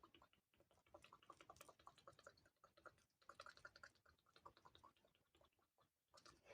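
Faint, rapid, irregular close-up clicking and tapping, several small clicks a second.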